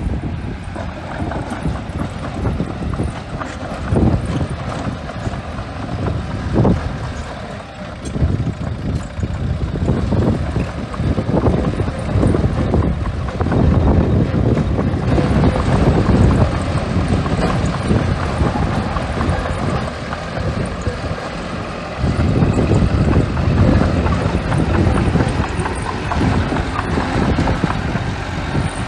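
Small bulldozer's diesel engine working, an uneven low rumble that rises and falls in level several times, with wind buffeting the microphone.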